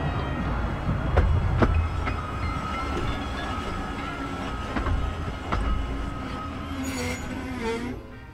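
15-inch narrow gauge Bure Valley Railway train heard from on board, running slowly: the wheels click over the rail joints, the clicks coming further apart as it slows, with a steady wheel squeal through the middle and a brief hiss near the end.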